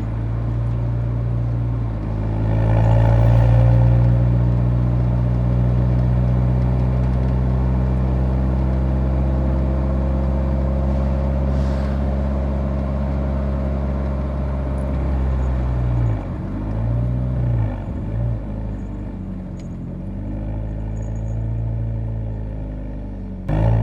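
Nissan 180SX exhaust note while driving. It picks up about two seconds in, holds steady at cruise, then from about two-thirds of the way through its pitch dips and rises several times as the throttle comes off and on.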